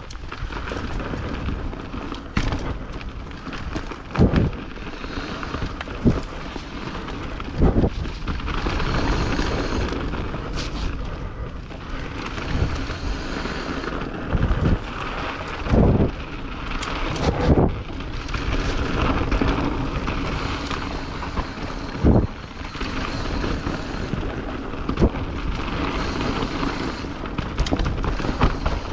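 Mountain bike riding down a rough, wet trail: a steady rush of tyre and wind noise, broken every second or two by sharp thumps and clatter as the bike hits roots and rocks.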